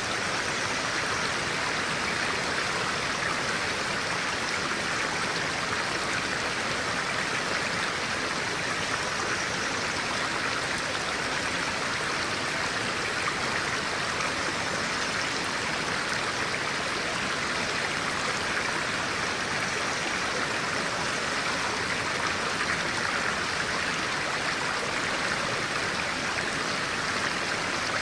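A clear-water stream flowing, a steady, unbroken sound of running water.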